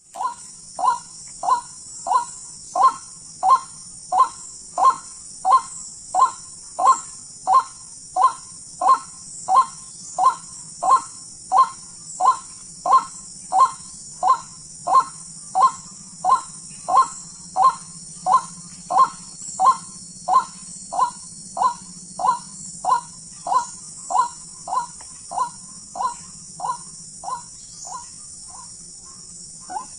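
Ruak-ruak (white-breasted waterhen) call: one short, slightly falling note repeated over and over at an even pace of about one and a half calls a second, over a steady high-pitched hiss.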